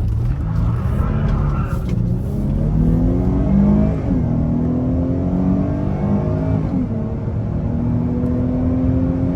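Dodge Charger's V6 engine at hard acceleration, its pitch climbing through the gears. It drops at an upshift about four seconds in and again near seven seconds, then climbs again, over steady road and wind rush.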